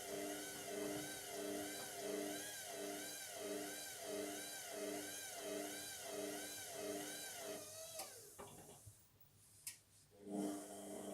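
Indesit MTWC71252WUK washing machine's motor turning the drum with a whine that wobbles in pitch about twice a second, typical of a lopsided load of one heavy item. It stops about eight seconds in, a click follows, and the motor starts again about two seconds later, as the machine tries again to balance the load before spinning.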